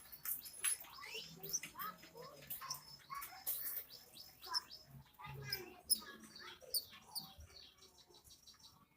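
Young manyar weaver bird chattering: a rapid run of short, squeaky downward-sliding chirps and clicks, dying away over the last couple of seconds.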